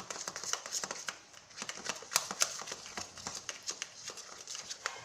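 Fork stirring glue-based slime in a bowl: a fast, irregular run of small wet clicks and scrapes.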